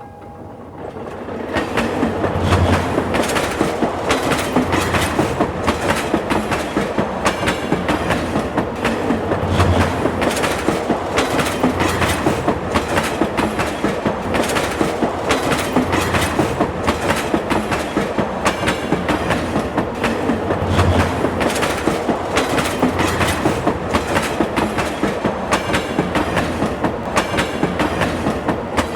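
A train running along the rails with a steady clickety-clack of wheels over rail joints, about two clicks a second, building up over the first second or two.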